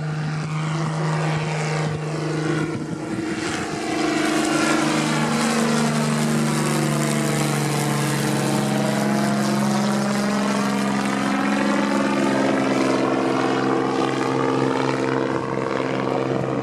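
Dornier Do-27's six-cylinder piston engine and propeller droning through a pass. It grows louder about four seconds in, and the pitch drops slightly as the aircraft goes by, near the middle.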